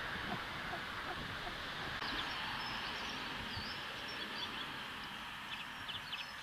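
Steady outdoor hiss of a trail camera's microphone, with faint high-pitched chirps and twitters of small birds from about two seconds in and a quick run of them near the end.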